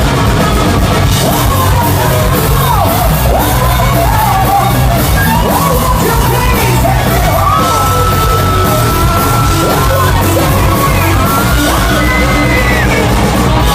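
Loud rock music with a distorted lead guitar solo over a heavy band: the lead bends up and down between notes and holds two long, steady high notes, the second higher, near the end.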